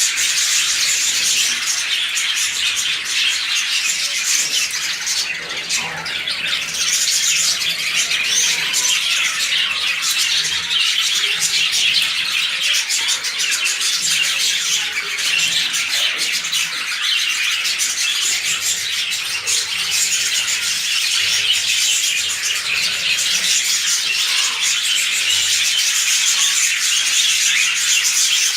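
A colony of lovebirds calling, many high, sharp chirps and chatters overlapping without a pause.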